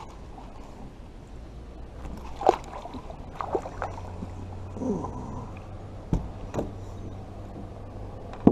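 Small water sounds against a kayak with several sharp knocks of handling, the loudest about two and a half seconds in and near the end.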